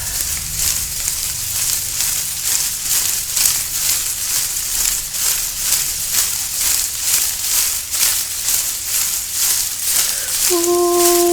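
Steady rhythmic rustling hiss, about four pulses a second, like something being shaken. Near the end a steady held tone with overtones comes in.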